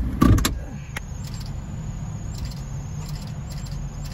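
Car engine idling, heard from inside the cabin as a steady low hum, with a loud thump about a quarter second in and a few light clicks.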